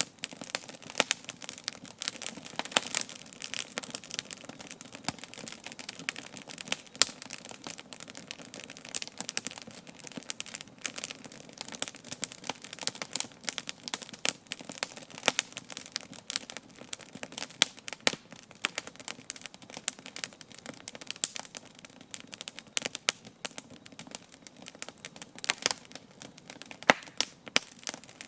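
Wood campfire burning, crackling continuously with frequent sharp snaps and a few louder pops.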